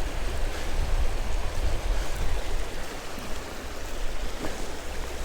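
Creek water rushing in a strong current, a steady even noise.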